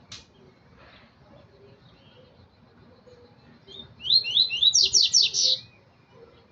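Double-collared seedeater (coleiro) singing one short phrase about four seconds in: a few quick falling notes run straight into a fast run of high notes, lasting about two seconds.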